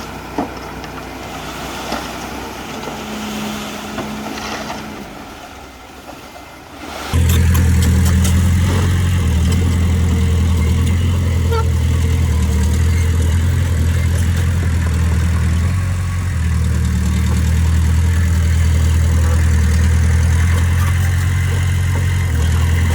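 Diesel engine of a bulldozer or dump truck running. It is fairly quiet for the first seven seconds or so, then suddenly becomes much louder and stays steady.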